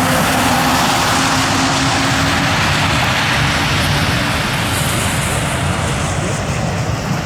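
Jet airliner's engines at take-off thrust on a wet runway, a loud steady rush of engine noise with spray hiss that eases off near the end as the jet rolls away.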